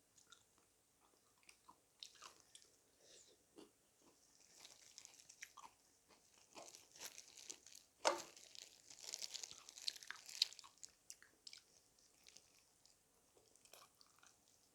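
Close-miked chewing and crunching of fried chicken, with scattered small crunches and a louder, crackly run of bites about eight to ten seconds in.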